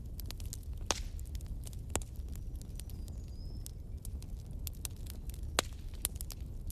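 Wood fire crackling in a fireplace: irregular sharp pops and snaps over a steady low rumble, with louder pops about a second in and around six seconds.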